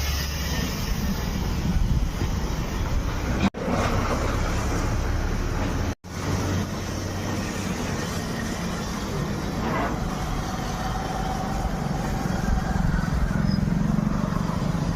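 Steady rumbling vehicle or machine noise, broken twice by abrupt cuts to silence about three and a half and six seconds in.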